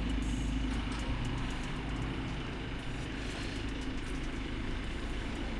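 A car engine running steadily, a low, even hum with no revving.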